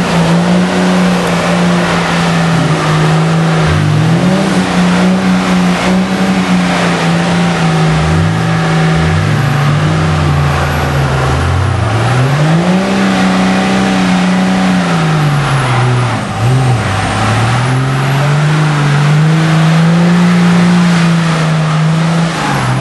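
Dodge pickup's Cummins inline-six diesel engine running hard at high revs, its pitch climbing and dropping again and again as the throttle is worked. A second, lower engine tone rises briefly in the middle.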